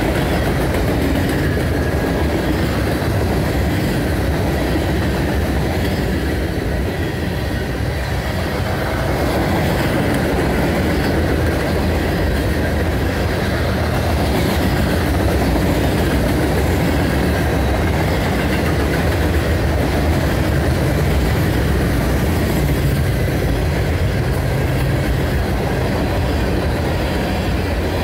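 Freight cars of a CSX manifest train rolling steadily past at close range: a continuous rumble of steel wheels on rail from boxcars, centerbeam flatcars and covered hoppers.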